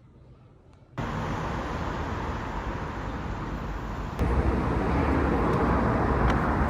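Steady outdoor background noise that starts abruptly about a second in and steps louder with a deeper rumble about four seconds in.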